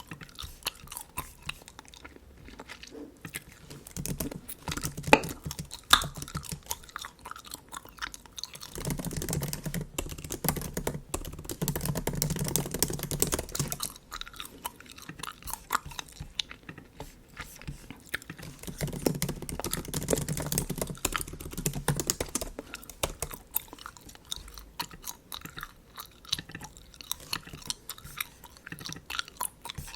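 Close-miked chewing of bubble gum: a steady stream of small sticky clicks and wet smacks, heavier in two stretches about a third and two thirds of the way through.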